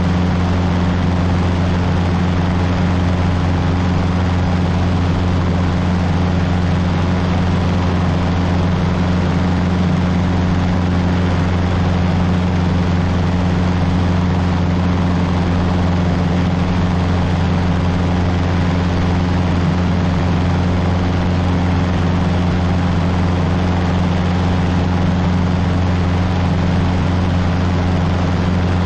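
Cessna 150's four-cylinder Continental O-200 engine and two-blade propeller in steady cruise, a loud even drone with a low hum whose pitch does not change.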